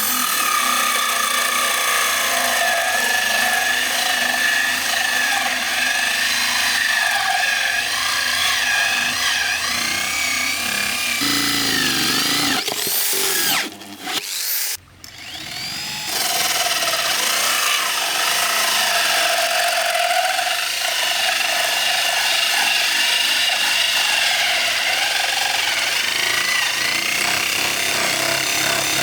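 A handheld power tool running steadily under load, its whine wavering in pitch as it works. About halfway through it winds down and cuts out briefly, with falling and rising sweeps, then starts again and runs on.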